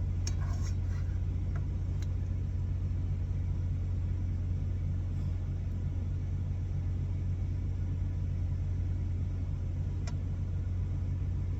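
Steady low rumble of an idling diesel truck engine, unchanging throughout, with a few faint light clicks.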